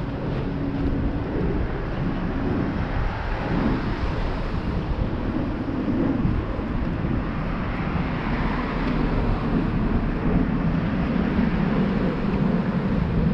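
Steady outdoor rumble and hiss with no clear single source, swelling slightly about two-thirds of the way through.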